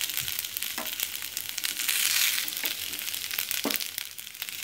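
Oil sizzling and crackling steadily around idlis shallow-frying in a pan with mustard seeds and green chillies, with a few faint knocks.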